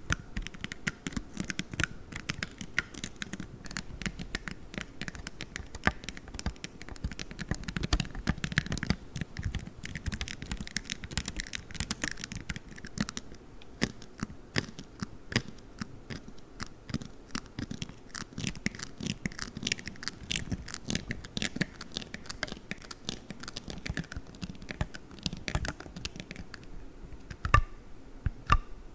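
Play Foam being squished and kneaded, a dense crackle of many small clicks, with a few sharper taps near the end.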